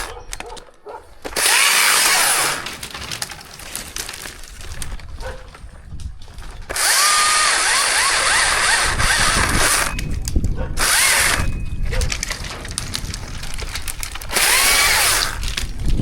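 Chainsaw running in bursts of revving, its pitch bending as it speeds up and slows: a short burst about a second in, a longer one of about three seconds near the middle, a brief one just after, and another near the end, idling more quietly in between.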